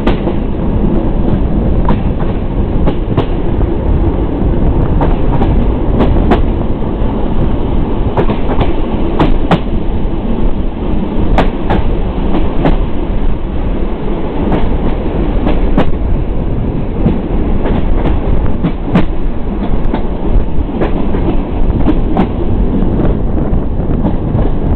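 Intercity passenger train running along the track, heard from an open carriage window: a steady loud rumble of wheels on rail, broken by sharp clicks at irregular intervals as the wheels pass over rail joints.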